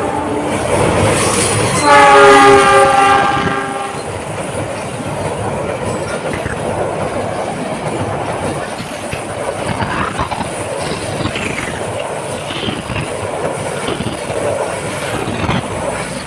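Train locomotive horn sounding a loud chord of several tones for about two seconds, then the train rolling across a railway bridge: a steady rumble with clickety-clack of the wheels.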